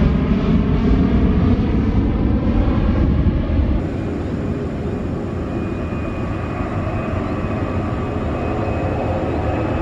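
Jet airliner engines running loud as a plane passes near the runway: a heavy rumble with slowly sweeping tone colour that eases somewhat about four seconds in, leaving a steadier roar with a thin high whine.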